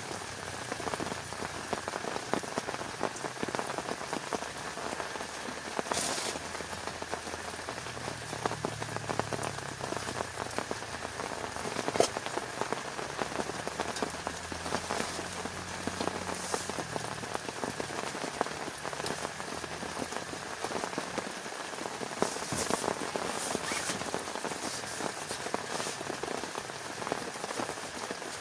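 Heavy rain pattering steadily, a dense stream of small drop strikes, with one sharper tap about twelve seconds in.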